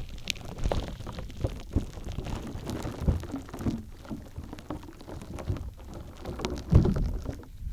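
Gritty shaved-ice (kakigori) slime squished and kneaded by hand close to a binaural microphone: a dense run of small crackles and squelches, with one louder squish near the end.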